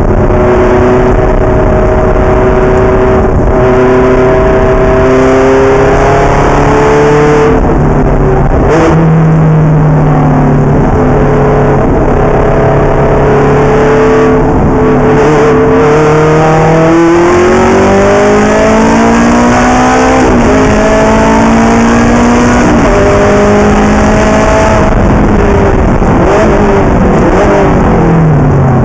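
Ferrari race car engine running hard and loud, its pitch climbing and falling again and again as it revs up and comes off the throttle through the laps, with a steady rush of road and wind noise underneath.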